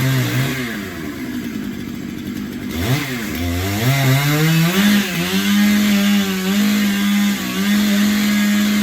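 Two-stroke chainsaw running: revved at the start, dropping back to a lower speed, then throttled up again about three seconds in and held at high speed, with small dips in pitch.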